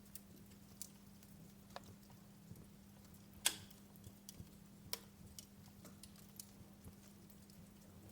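Wood fire crackling in a fireplace: faint, irregular snaps and ticks, with one louder pop about three and a half seconds in, over a faint steady hum.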